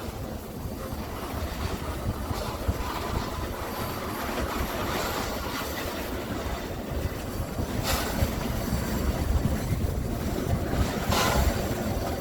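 Heritage railway train running along the track with a steady rumble, broken by two short sharp bursts about eight and eleven seconds in.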